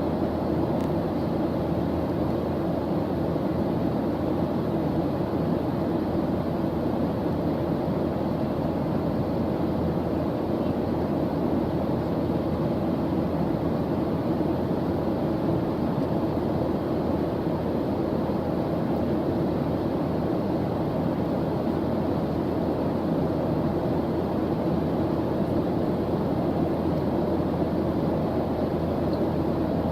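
Steady background noise track of the kind played for study focus, deep and even and weighted toward the low end rather than hissy, with no change in level or pitch.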